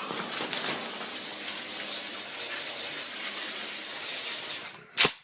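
A steady rushing noise, like running water, that fades away near the end and is followed by one short click.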